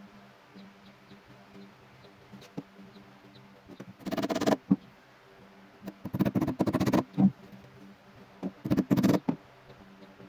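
A homemade table saw, its motor humming faintly, making three short, loud cuts through wood, each lasting about a second or less.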